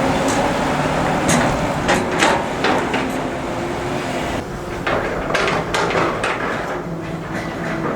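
Excavator diesel engine running steadily, with a series of sharp metallic clanks and knocks, about a dozen in two bunches.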